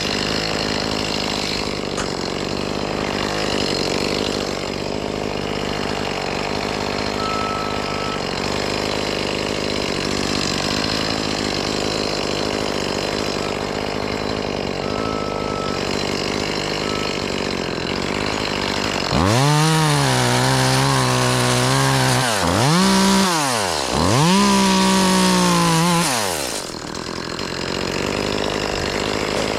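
Chainsaw running steadily during tree limb cutting, then revved up and down three times from about two-thirds of the way in, before settling back to a steady run.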